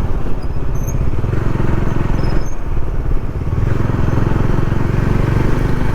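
Motorcycle engine running steadily on the move, with road and wind noise, easing off briefly about halfway through.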